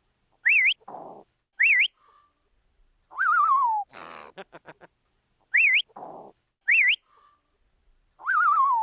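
A bird's whistled calls in a repeating sequence. A wavering whistle slides downward, then comes a harsh rasp and a quick run of clicks, then two short whistles that rise, dip and rise again. The whole sequence repeats about every five seconds.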